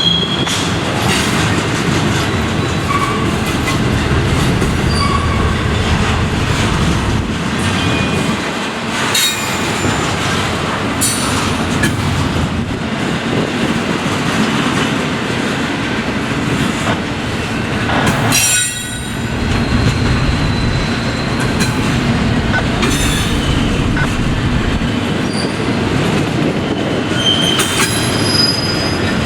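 Norfolk Southern freight train rolling past, its cars' steel wheels clicking over the rail joints with a few brief, high wheel squeals.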